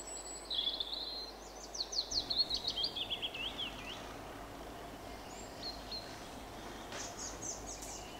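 Small birds chirping in quick runs of short falling notes over a steady faint background hiss, with a burst of chirps early and another near the end.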